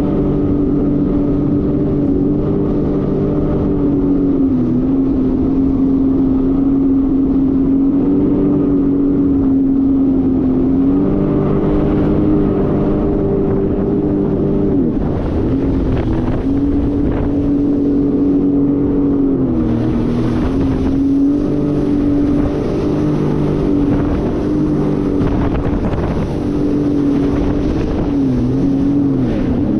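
Jet ski engine running at speed, its note dipping briefly and climbing back several times as the throttle is eased and opened again.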